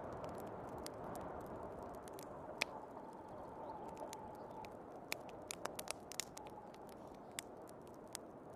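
Wood fire crackling with scattered sharp pops, one louder pop about two and a half seconds in, over the steady rushing of snowstorm wind.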